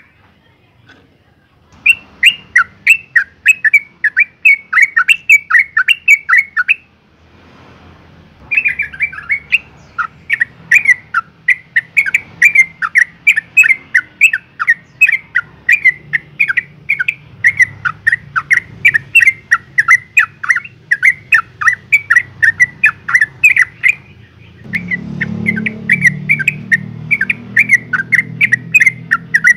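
Yellow-vented bulbul giving long runs of rapid, sharp chattering notes, about three to four a second, with two short breaks. This is a female's excited call to a male, used as a lure to set other bulbuls calling. A low hum joins the calls near the end.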